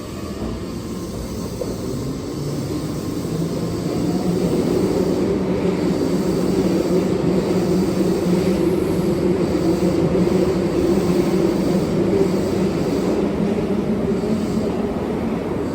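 Keihan 7000 series electric train running into the station, a steady rumble and wheel noise that grows louder over the first few seconds and then holds.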